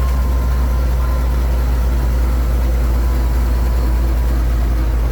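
Six-cylinder engine of a 1928 Graham Brothers 1½-ton truck running steadily, heard from inside the cab as a loud, even low drone.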